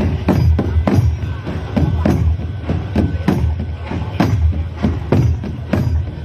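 Klong thad, large two-headed Thai barrel drums, beaten with sticks in a steady run of deep strokes, about three a second.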